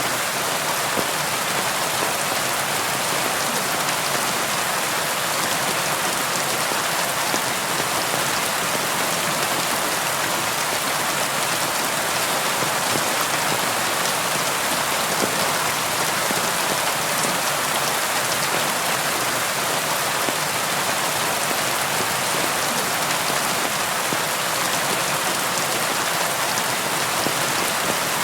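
Steady rain falling: an even hiss of many raindrops, unchanging throughout.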